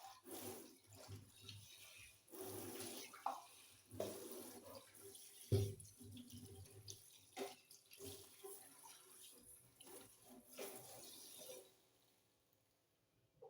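Water from a kitchen tap running and splashing in the sink in irregular spurts as the sink is washed, with scattered knocks and clatter, the loudest a sharp knock about five and a half seconds in.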